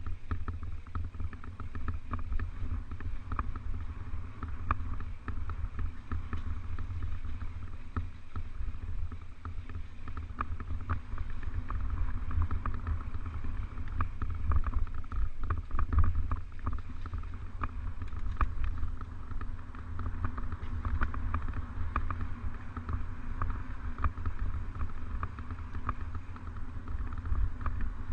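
Mountain bike rolling over a trail: a steady deep rumble of wind and ground noise on the microphone, with frequent small clicks and rattles from the bike.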